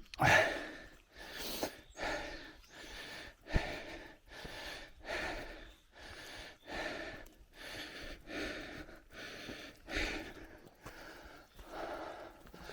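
A cyclist breathing hard and rhythmically close to the microphone, a breath a little more than once a second, with one short sharp click about three and a half seconds in.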